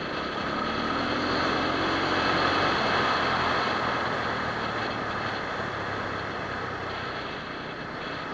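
SWM RS650R's single-cylinder engine pulling along a gravel road, rising in pitch and loudness over the first couple of seconds, then easing off. It is heard through heavy riding noise of wind and tyres on gravel.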